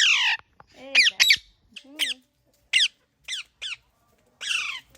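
Rose-ringed parakeet (green parrot) giving a series of about eight short, harsh squawks, each falling quickly in pitch, in an irregular run with short pauses between; the first is the loudest.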